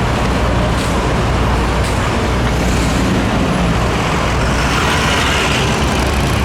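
Large vehicle's diesel engine idling close by: a steady low hum over city traffic noise.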